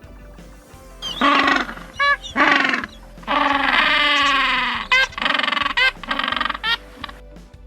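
Tiger roaring three times, the last roar the longest and falling in pitch, over background music.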